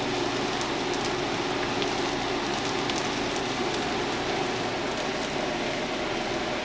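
Bacon strips sizzling steadily in a hot frying pan, with scattered small crackles.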